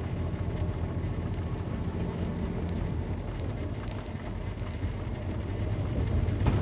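Semi truck's cab interior noise while cruising on the highway: a steady low engine drone with road and tyre noise.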